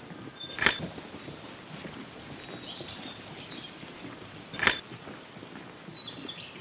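Forest birds calling with thin high whistles and chirps, including one long falling whistle, over a steady hiss. Two sharp clicks, one under a second in and one near five seconds, are the loudest sounds.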